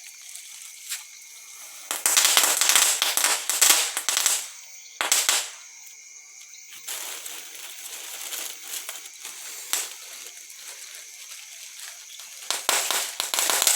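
Small handheld fireworks crackling in rapid runs of tiny pops, loudest about two seconds in and again near the end, with a steady fizzing hiss and scattered pops in between.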